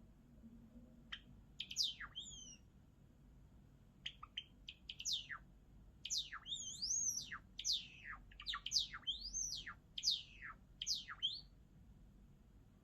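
White Java sparrow singing: a few short notes, then a quick run of sharp, sweeping chirps, most falling in pitch and some rising, which stops shortly before the end.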